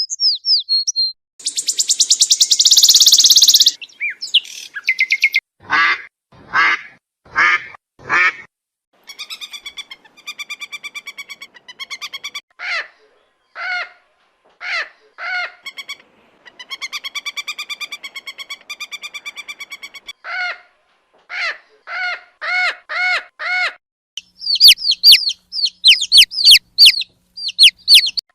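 Calls of several different birds, one kind after another: thin whistles, then a dense buzzing rattle, then runs of short, harsh, pitched calls in series of four to six, and sharp shrill chirps near the end.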